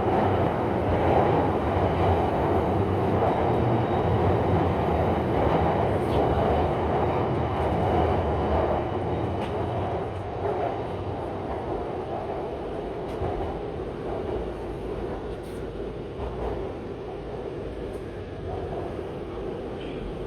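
Shanghai Metro Line 9 train running underground, heard from inside the carriage: a steady rumble of wheels and motors with a few faint clicks. The rumble eases off gradually in the second half as the train slows toward the next station.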